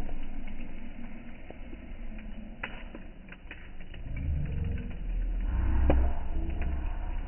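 Campfire burning, with a few sharp crackles and pops from the wood over a low rumble that grows louder in the second half.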